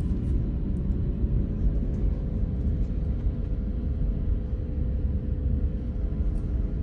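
Steady low vehicle rumble with a faint even hum.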